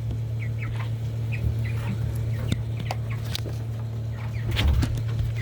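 A flock of five-week-old broiler chickens giving short, scattered calls, over a steady low hum.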